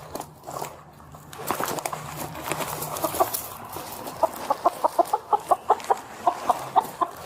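Chicken clucking: scattered clucks at first, then a quick run of short clucks, about four or five a second, through the second half.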